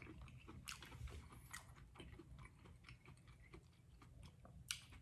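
Faint close-up chewing of a bite of corn on the cob, a soft, irregular run of small crunchy clicks, with one sharper click near the end.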